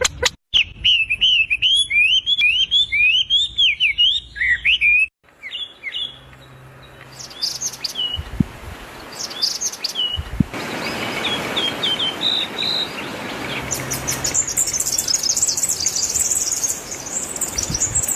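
Bulbuls chirping. A quick run of repeated rising chirps lasts about five seconds, then scattered single chirps sound over a steady hiss, and a fast, high-pitched chirping comes near the end.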